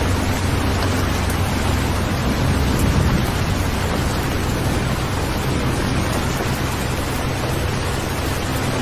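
Steady rain with a low rumble underneath, swelling slightly about three seconds in.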